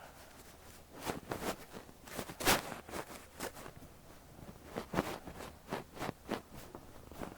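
Fluffy down ear brush sweeping and brushing over a microphone's ear in short, irregular strokes, the strongest about two and a half seconds in.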